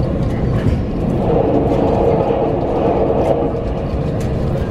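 Running noise of a Tobu 100 series 'Spacia' electric express train heard inside the passenger cabin: a steady rumble of wheels on the rails with a steady hum and faint clicks.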